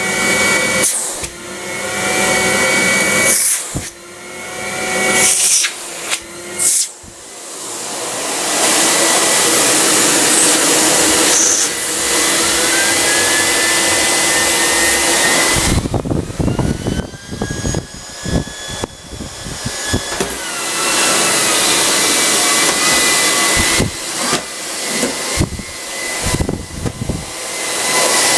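ETA 3408 Quinto vacuum cleaner running, its sound dipping and surging several times in the first few seconds and again near the end, steady in between. A faint whine in it shifts pitch partway through.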